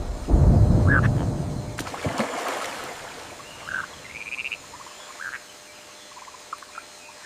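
Wetland ambience: a loud low rush of noise for the first two seconds, then scattered short calls of frogs over a quieter background.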